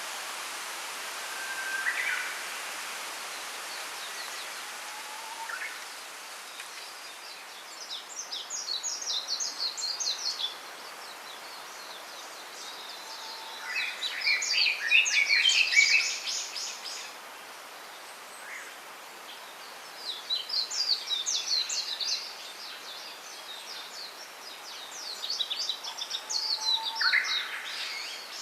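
A small songbird sings four rapid, high twittering phrases, each lasting two to three seconds, with a few single chirps between them. Underneath is a steady hiss of wind through bamboo leaves, which eases off about seven seconds in.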